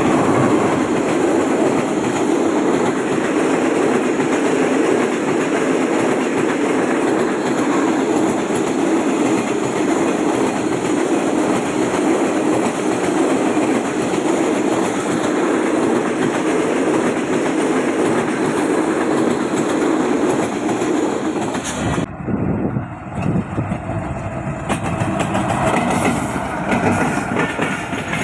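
A train running on the track: a steady, loud rumble of wheels on rails with a clickety-clack. The sound changes abruptly about 22 seconds in.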